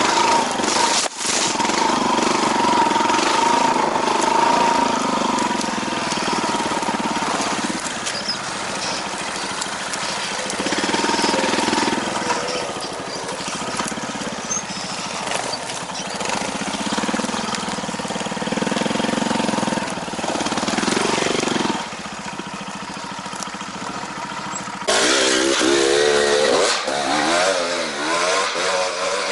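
Motorcycle engine running with the revs rising and falling, louder and revving harder in the last few seconds.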